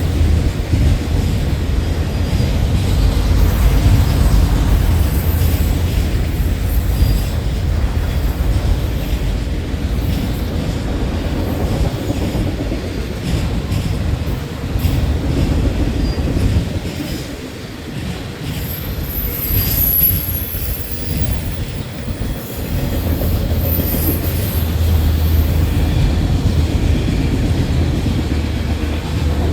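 A long freight train rolling past at track side, its cars' wheels rumbling and clicking over the rails, with a brief high-pitched wheel squeal a little past the middle.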